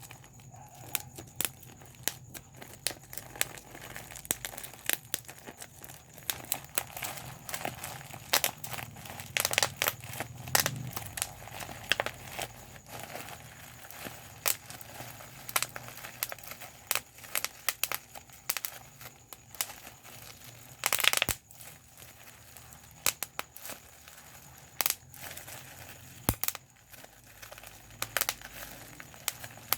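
Plastic bubble wrap being popped by hand: irregular sharp pops, sometimes several in quick succession, over the crinkling of the sheet. About two-thirds of the way through comes a louder, half-second crackle of several pops together.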